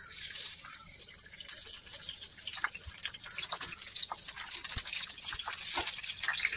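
Boiled, salt-stuffed green chillies sizzling and spattering in hot oil in a kadhai, with many small crackling pops. The sizzle starts as they go in and grows a little louder.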